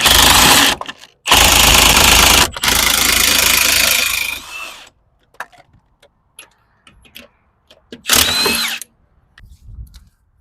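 A handheld power tool run in three long bursts over the first four and a half seconds, the last one winding down, then light clicks of tools and one more short burst near the end.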